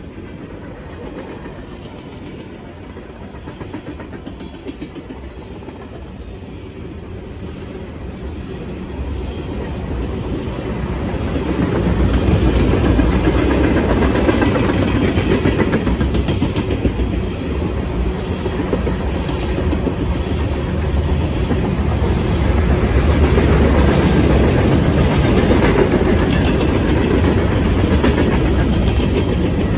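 Freight train cars rolling past close by: the steady rumble of steel wheels on the rails, growing louder about ten seconds in and then holding.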